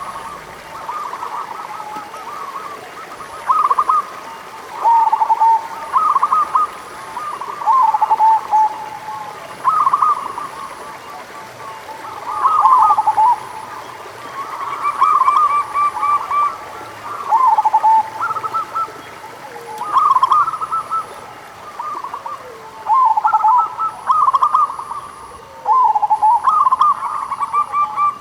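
Zebra doves (local perkutut) singing: short phrases of quick cooing notes, one every second or two, some overlapping at slightly different pitches.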